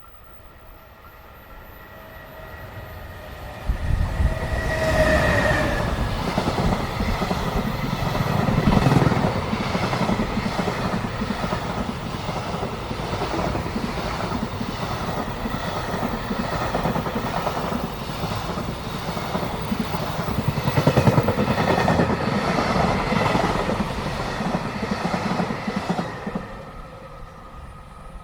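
Electric freight train passing: the locomotive arrives suddenly about four seconds in with a brief falling tone, then a long run of wagons rumbles and clacks rhythmically over the rail joints before fading near the end.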